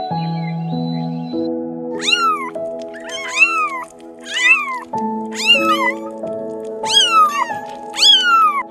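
Kittens meowing: about six high-pitched meows roughly a second apart, each rising and then falling in pitch, starting about two seconds in. Soft background music with held notes plays under them.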